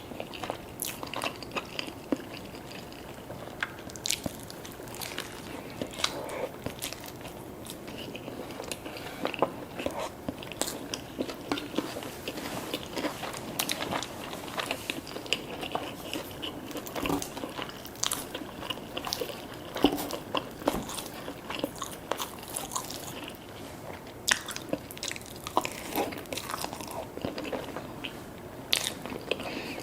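Close-miked eating: bites and crunchy chewing of fast food, with many sharp, irregular crunches.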